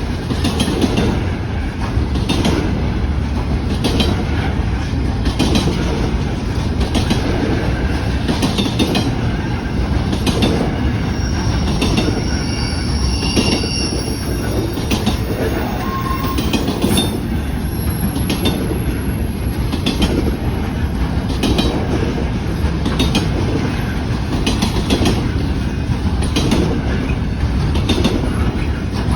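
Freight train cars rolling past, their wheels clicking over rail joints in a steady rhythm of about one click a second over a continuous rumble. A few brief, high-pitched wheel squeals come about halfway through.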